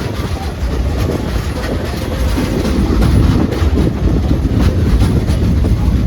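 Passenger train car rolling along, with a steady low rumble and wheels clacking over the rail joints, getting a little louder about halfway through.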